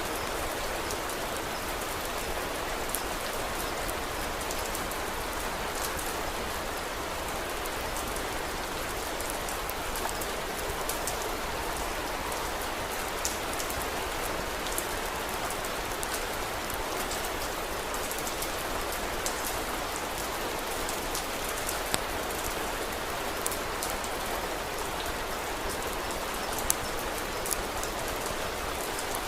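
Steady rain falling, with a scattered sharp crackle from a wood fire every few seconds. The loudest crackles come near the end.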